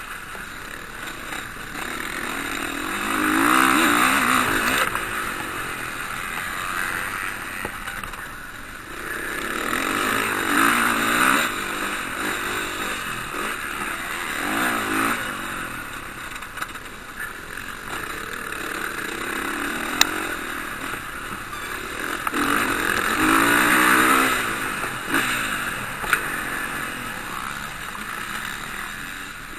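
Motocross motorcycles racing past, their engines revving and swelling up then fading as they pass, four times, with engine noise from other bikes around the track in between. A single sharp crack about two-thirds of the way through.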